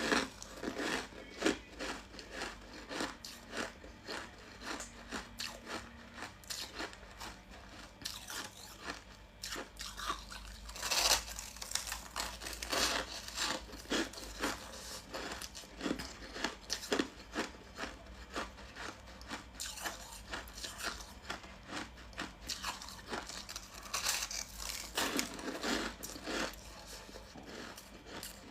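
Mouth crunching and chewing frost ice scraped from a humidifier, in a long run of irregular crunchy bites with a few louder crunches.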